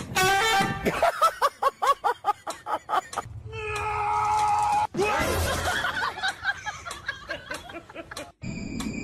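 A person laughing in quick rhythmic bursts over background music, broken by abrupt cuts.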